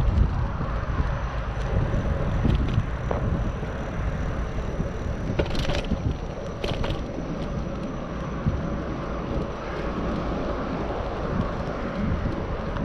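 Riding noise from a Specialized Sirrus bicycle on the move: a steady rumble of wind over the microphone and tyres on the road, with a couple of short rattles about six and seven seconds in.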